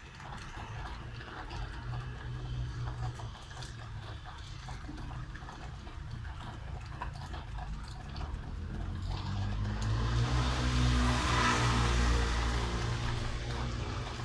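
Rain falling steadily, with scattered drips and ticks and a low vehicle hum under it. About ten seconds in, a car passes on the wet street, its tyre hiss swelling and then fading.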